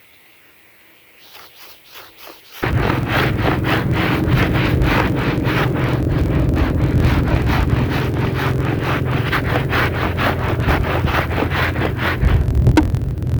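A wet, muddy rug being scrubbed in quick, regular brush strokes, about three a second, over a steady low motor hum. Both start suddenly about two and a half seconds in, after a few faint strokes.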